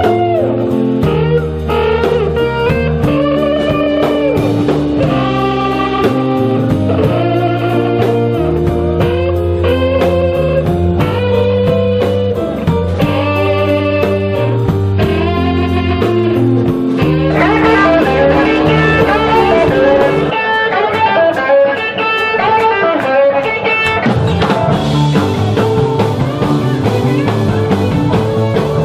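Blues-rock band playing live: electric guitar lines over bass and drums with a steady beat. About two-thirds of the way through, the sound turns fuller and brighter.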